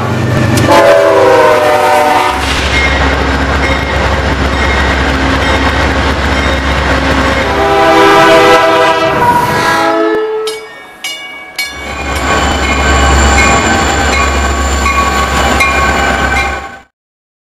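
Passing trains in a run of spliced clips: a locomotive air horn sounds a chord near the start and again about eight seconds in, over the heavy low rumble of locomotives and rolling cars. A run of sharp clicks comes about ten seconds in, and the sound cuts off suddenly just before the end.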